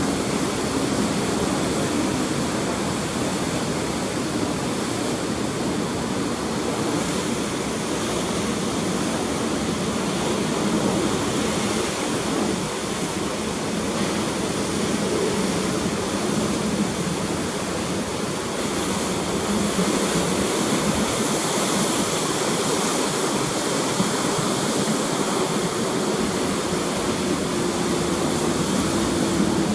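Ocean surf churning steadily after a typhoon, a continuous rushing with no clear separate breaks. Under it runs a faint low hum that slowly shifts in pitch.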